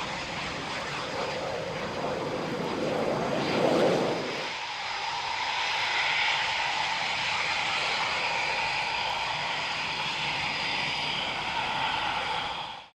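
Eurofighter Typhoon's twin Eurojet EJ200 jet engines running, loudest about four seconds in, then settling into a steadier, even sound with a held tone. It cuts off abruptly near the end.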